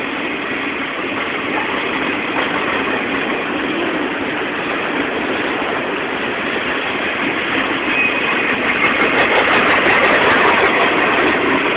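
Freight train's diesel locomotives, two EMD SD40-2 units, running steadily, growing a little louder near the end.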